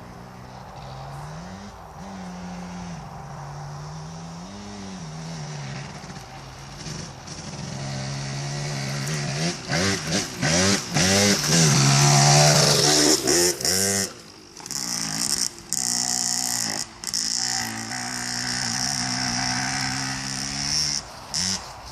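Motocross motorcycle engine revving up and down again and again as the bike is ridden, growing louder toward the middle, where it is loudest about twelve seconds in. In the second half the sound cuts out briefly several times.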